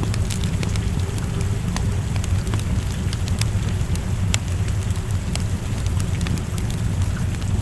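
Wood fire crackling in a fireplace, with irregular sharp pops over a steady low rush of rain.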